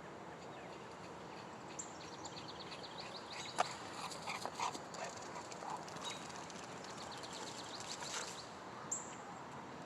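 Dogs moving about and playing outdoors, with a few sharp clicks and scuffs, the loudest about three and a half seconds in. Twice, a run of quick, high, repeated chirping notes sounds in the background.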